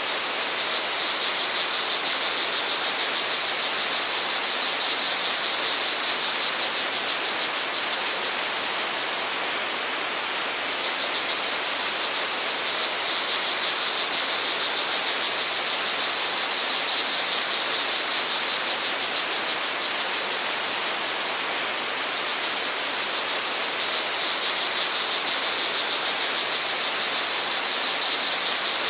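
Steady rush of flowing water from a waterfall or stream, with crickets trilling in long high-pitched bouts that break off about a third of the way in and again around two-thirds of the way.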